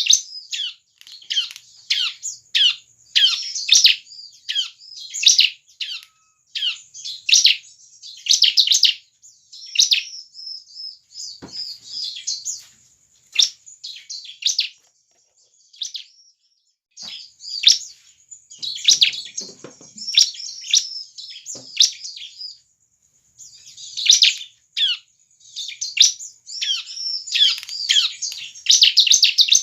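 Bar-winged prinia (ciblek) singing in full, energetic song: rapid runs of sharp, high chirping notes in repeated bursts, broken by short pauses.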